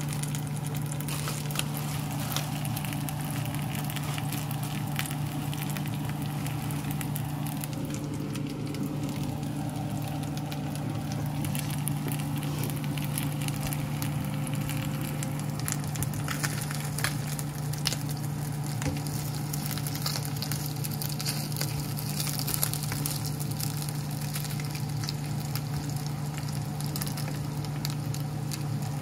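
Chicken pieces sizzling and crackling as they fry in a nonstick pan, a steady spatter of fine pops, over a steady low hum.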